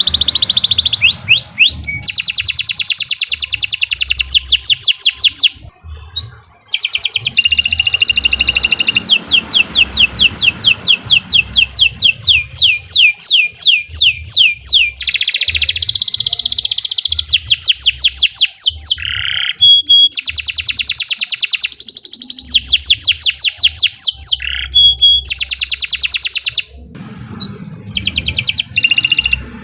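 Domestic canary singing a long, continuous song of rapid trills, each a fast run of repeated high notes, with brief breaks about six seconds in and near the end.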